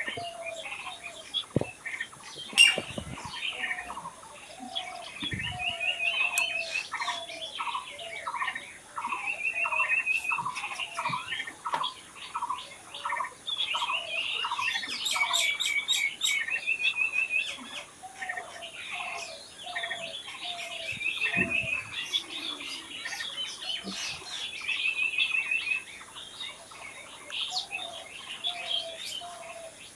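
Several wild birds singing and calling at once: a steady run of short repeated chirps, quick trills and lower whistled notes overlapping one another.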